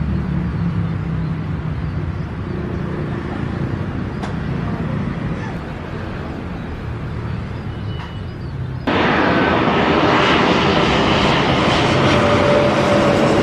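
Airliner jet engines rumbling low and steady. About two-thirds of the way through there is a sudden step up to a much louder, broad rushing roar.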